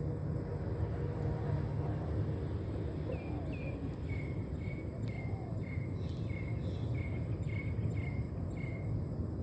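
Outdoor ambience: a steady low rumble with a run of short, high chirps, about two a second, starting about three seconds in and stopping shortly before the end.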